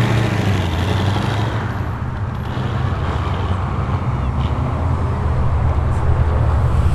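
Ford Mustang's engine running deep and low as the car drives slowly past. It eases off a little about two seconds in and builds again toward the end.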